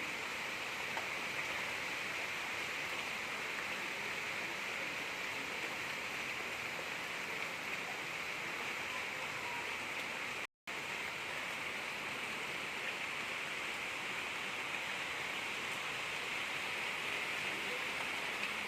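Gentle rain falling steadily: an even, unbroken hiss, cut by a split-second drop to silence about ten and a half seconds in.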